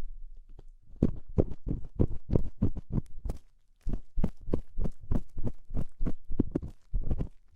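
Ear-cleaning tool scraping and rubbing close against the microphone in quick strokes, about three to four a second. The strokes pick up about a second in and pause briefly just past the middle.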